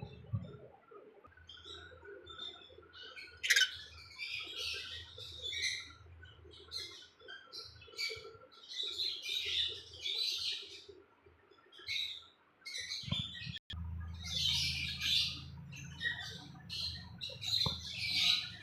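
Lovebirds chattering with many short, high chirps that overlap, one sharper chirp standing out a few seconds in, over a low steady hum.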